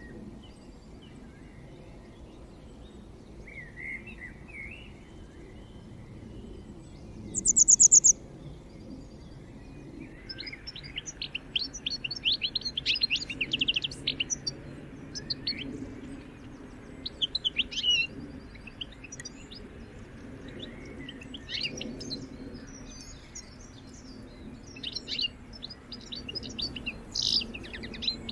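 Birds chirping and singing. A few scattered calls come first, then one loud high call about seven seconds in. From about ten seconds on there is a busy run of rapid chirps and trills.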